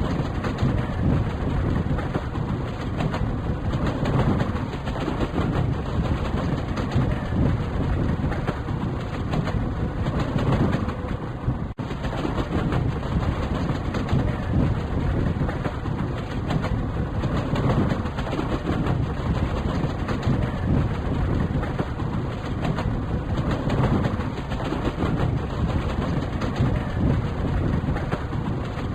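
Moving passenger train, a steady running rumble of wheels on the track, with a momentary dropout about twelve seconds in.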